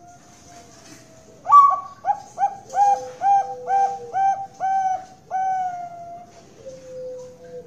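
Zebra dove (perkutut) of the Bangkok song strain cooing: a sharp opening note, then a quick run of about eight short rhythmic coos, closing on one longer drawn-out coo. Fainter long coos from other doves sound before and after it.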